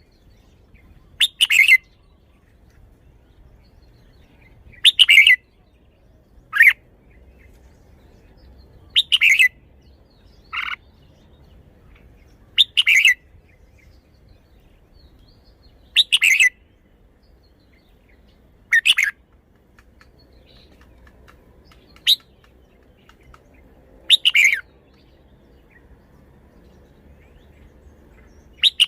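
Red-whiskered bulbul singing: short, loud, warbling song phrases, each under a second, repeated about every two to four seconds.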